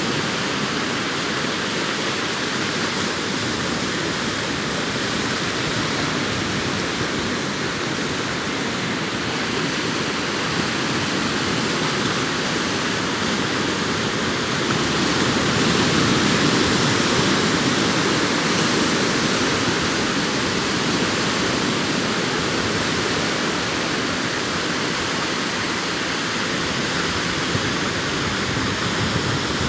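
Arabian Sea surf breaking and washing up the shore in a steady, continuous rush, swelling a little about halfway through.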